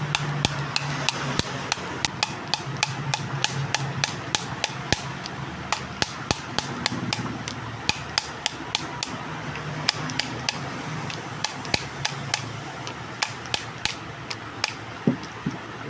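Hammer tapping repeatedly on an opened electric-bicycle hub motor, about three light strikes a second, to knock loose a rotor magnet whose glue has failed. A steady low hum runs underneath.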